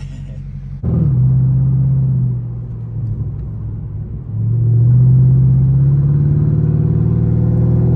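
Pontiac G8 GT's 6.0-litre V8 through a straight-pipe exhaust (mid muffler and resonator removed) accelerating hard twice: the exhaust note jumps sharply louder about a second in, eases off briefly, then comes on loud again a little over four seconds in and holds.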